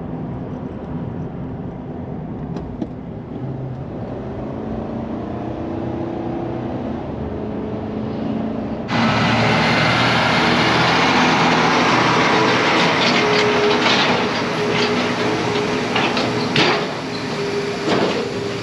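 Farm machinery engine running steadily. About nine seconds in, the sound changes abruptly to a louder, brighter machinery noise with a steady hum and scattered knocks.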